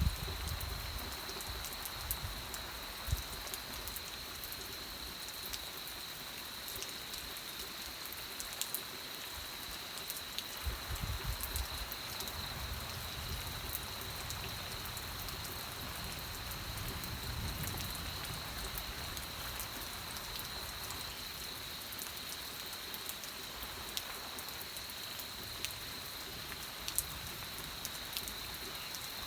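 Steady rain falling, with individual drops ticking sharply all through and a few brief low rumbles.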